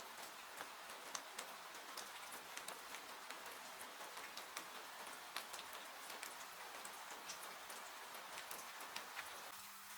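Steady rain hiss mixed with a wood fire crackling, with frequent sharp pops scattered through it. A faint low hum comes in near the end.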